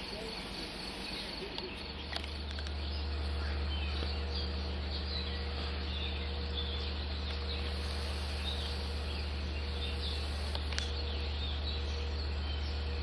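Early-morning outdoor ambience: insects trilling steadily and birds chirping now and then. A steady low hum comes in about two seconds in.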